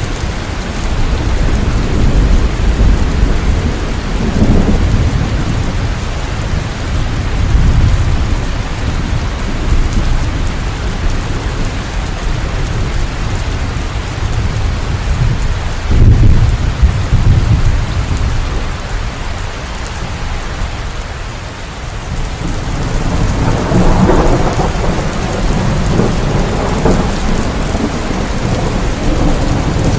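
Steady rain with rolling thunder: low rumbles swell and fade several times, the loudest a sudden clap about halfway through.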